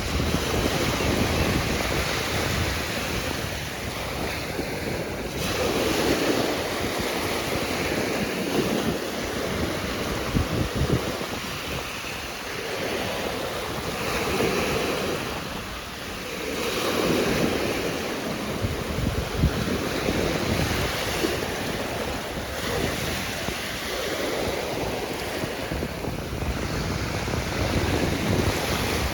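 Ocean surf washing ashore, swelling and ebbing every few seconds, with wind rumbling on the microphone.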